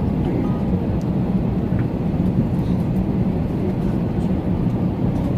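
Steady low rumble of a parked airliner, heard around the disembarking passengers.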